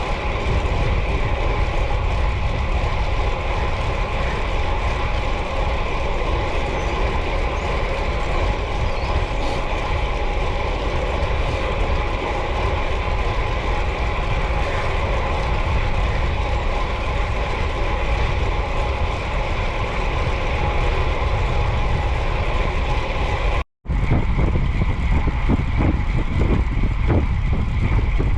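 Wind buffeting the microphone with road rumble while riding a bicycle at speed, and a steady whine underneath. The sound cuts out for a moment near the end, then the gusty rumble resumes.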